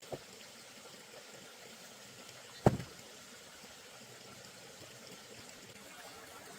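A single loud, sharp knock about two and a half seconds in, with a short ring after it, over a faint steady hiss.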